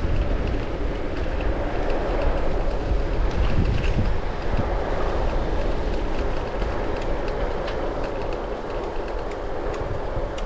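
Steady wind rush on the microphone with a low rolling rumble and faint rattling ticks, typical of riding a bicycle over a rough surface.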